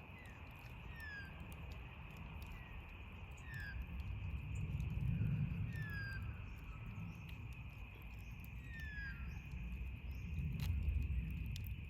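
A bird repeating a short falling whistle about once a second over a steady high hum, with sparse pops from a crackling campfire. A low rumble swells about halfway through and again near the end.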